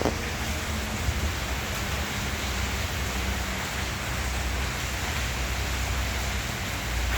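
Intense rain falling steadily, with a low rumble underneath and a short knock right at the start.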